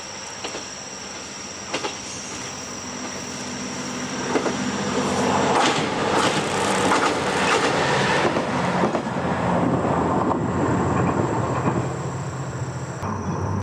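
Freight train hauled by a DD51 diesel-hydraulic locomotive passing close by: the engine drone and the rumble and clatter of wheels on rail build from about four seconds in and stay loud for several seconds before easing off slightly near the end.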